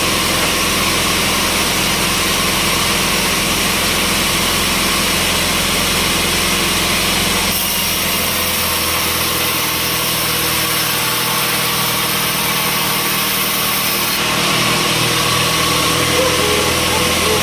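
Engine running steadily, as of engine-driven sawmill machinery, with an abrupt change in its tone about seven and a half seconds in.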